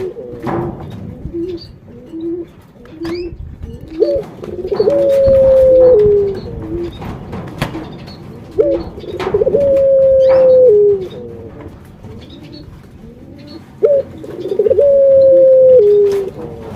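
Ringneck dove (burung puter) cooing: three long coos about four to five seconds apart, each a short clipped note followed by a long held coo that drops in pitch at its end. Faint clicks and soft low notes fall between the coos.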